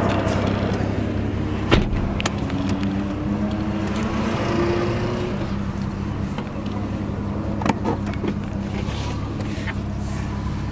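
BMW M2's N55 turbocharged straight-six with an Akrapovic exhaust running at low revs, heard from inside the cabin, its pitch rising and falling a little. A sharp knock about two seconds in and another near the eighth second.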